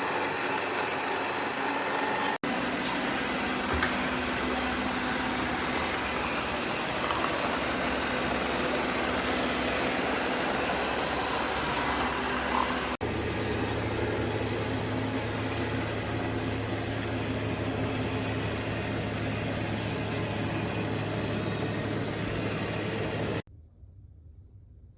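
Shark AV2501S AI Ultra robot vacuum running with a steady whirring rush of suction and a low hum. It breaks off briefly twice and stops shortly before the end.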